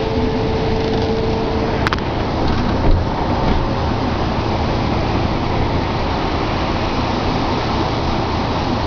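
Steady noise of rain and street traffic. A steady hum stops about two seconds in, with a sharp click at the same moment.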